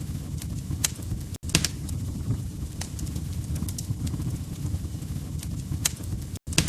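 Fireplace wood fire crackling: a steady low rumble with sharp pops and snaps every second or so. The sound cuts out for an instant twice, about a second and a half in and near the end.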